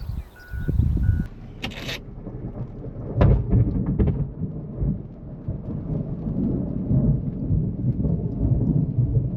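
Thunder rumbling low and unevenly, growing louder about three seconds in and rolling on. A short high hiss comes about two seconds in.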